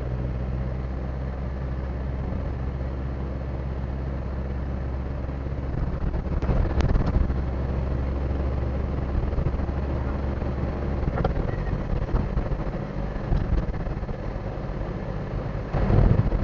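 Car engine running steadily, a low hum heard from inside the cabin, with a few short knocks and clicks, the loudest near the end.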